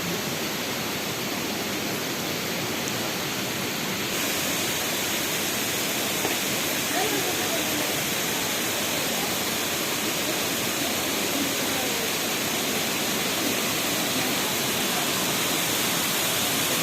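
Waterfall of a mountain spring, water cascading in a steady rush that grows fuller about four seconds in, with faint voices mixed in.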